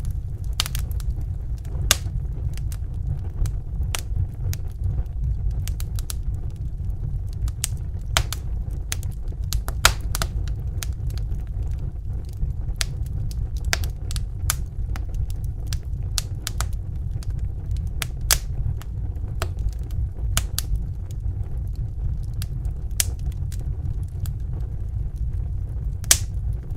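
Wood fire crackling in a fireplace: frequent irregular pops and snaps, a few of them louder, over a steady low rumble of the burning fire.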